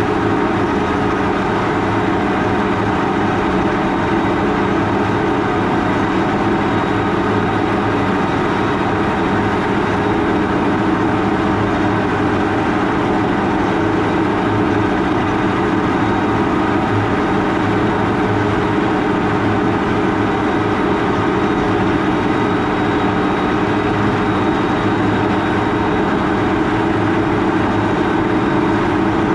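Large farm tractor's diesel engine running steadily in the field, a constant drone that holds its pitch throughout.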